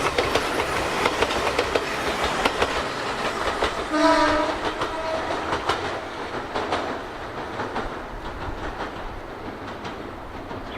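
Electric train passing with rapid wheel clatter over the rail joints. About four seconds in it sounds its horn for about a second, followed by a brief second note, and then the rumble slowly fades as the train moves away.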